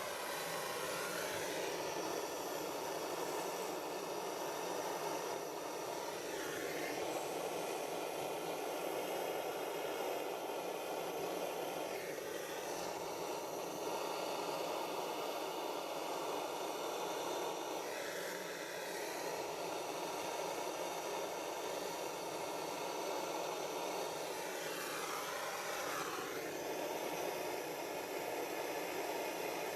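Gas blow lamp burning steadily, its flame heating a joint for silver soldering.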